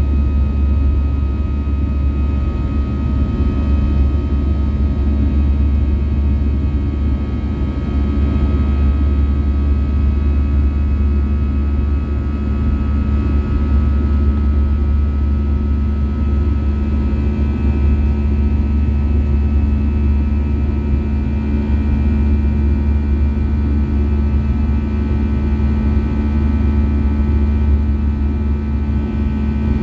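Airbus A320's CFM56 engines and airflow heard inside the passenger cabin in flight: a steady, loud drone with a deep rumble and several fixed whining tones above it.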